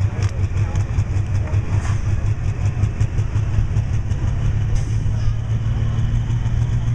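Diesel pickup truck engine running loud and steady at low revs, with a fast, even pulsing beat and no rise in pitch.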